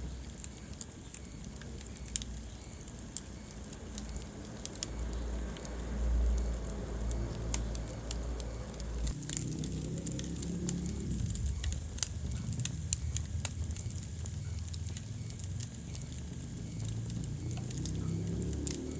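Wood fire burning in a fireplace: scattered sharp crackles and pops over a low, steady rumble of flame, with two louder pops about two thirds of the way through.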